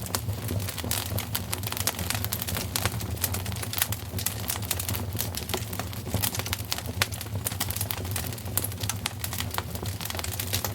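Fire crackling in a fireplace: quick, irregular pops and snaps over a steady low rumble.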